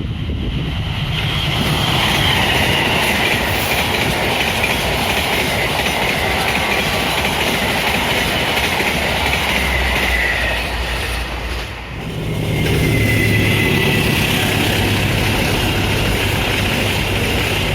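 A train running past on the rails, loud and continuous, with a high wavering whine from the wheels. The sound dips briefly about twelve seconds in, then comes back with a low steady hum added.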